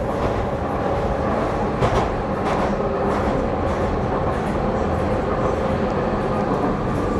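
Docklands Light Railway train running along the track, a steady rumble with a faint steady hum, and a couple of knocks from the rails about two seconds in.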